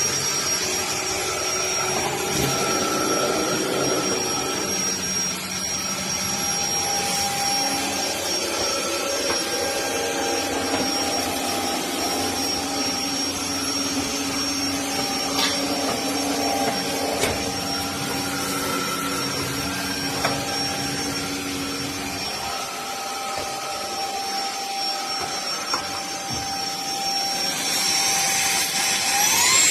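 FDUXUD 600 W cordless stick vacuum running steadily, a high motor whine over the rush of suction, with lower tones shifting in pitch now and then.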